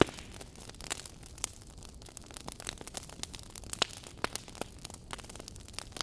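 Wood fire crackling: irregular sharp pops and snaps over a low steady hiss, with one loud pop right at the start.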